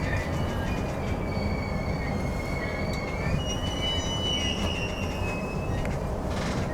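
Electric commuter train running on the rails with a steady low rumble, its wheels squealing in long drawn-out tones that shift pitch about halfway through, as it pulls into the terminus.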